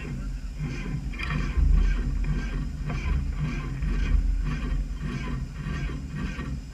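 Derby junk car's engine running close under the hood, a steady low rumble with a rattle that recurs about twice a second.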